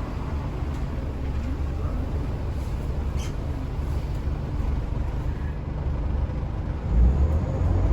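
Scania L94UA articulated bus running with a steady low engine rumble, growing louder about 7 seconds in. A brief sharp click a little after 3 seconds.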